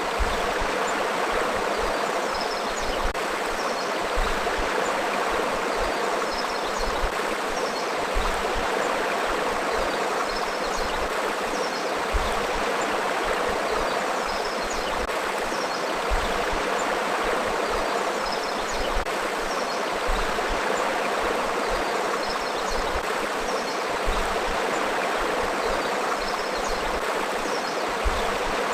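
River water flowing steadily, a continuous rushing and babbling that stays even throughout.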